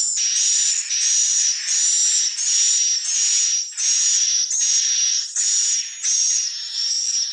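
Swiftlet calls: high-pitched buzzy chirps repeating about twice a second without a break.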